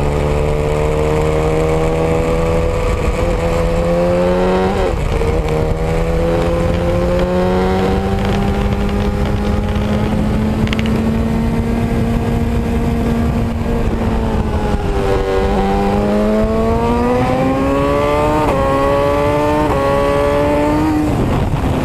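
A motor vehicle engine pulling under load, its pitch climbing slowly, then dropping sharply about five seconds in and again around fifteen seconds as it shifts gears, then climbing again.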